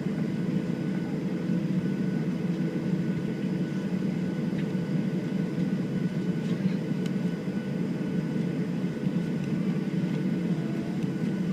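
Steady cabin noise inside a Boeing 737-700 airliner, with its CFM56-7B jet engines running: an even low rumble under faint steady whining tones.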